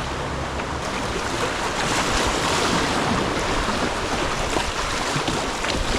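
Rushing whitewater of river rapids around a kayak, swelling about two seconds in, with wind rumbling on the microphone.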